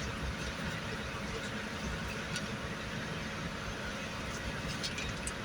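Steady low rumble with a hiss, like a vehicle's engine or ventilation running, with a few faint clicks near the end.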